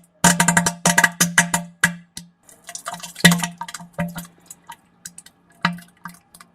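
Sputtering fart: a series of short buzzing blasts at one low pitch, broken into quick pops that come more sparsely and fade toward the end.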